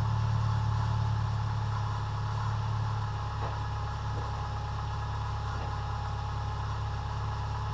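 2001 Subaru Forester's EJ25 flat-four engine running steadily, with a thin steady whine over the engine note. The engine is worn out, and the owner says it clacks and knocks, which he expects to end in a thrown rod.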